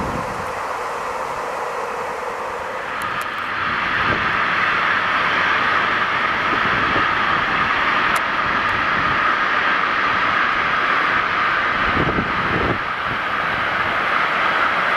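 Freight train passing: a VFLI electric locomotive hauling container wagons, with a steady rolling rumble of wheels on rails. It grows louder about three seconds in and holds steady as the wagons roll by.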